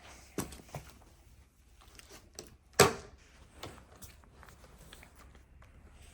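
Scattered light clicks and knocks of small objects being handled, with one sharper, louder knock a little under three seconds in.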